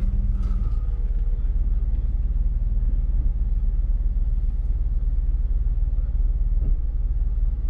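Jeep engine idling, a steady low rumble.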